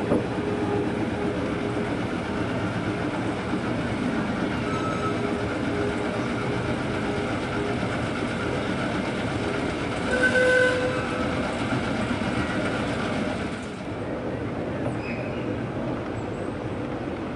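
Small narrow-gauge park railway train running, with a steady rumble and clatter of wheels on the rails heard from an open passenger car. About ten seconds in the locomotive gives a short signal toot; from about fourteen seconds the running noise is quieter.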